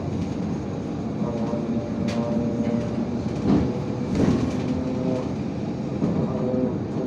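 IVECO Crossway 13M LE city bus under way: steady engine running and road rumble, with a few sharp knocks and rattles from the bus around the middle.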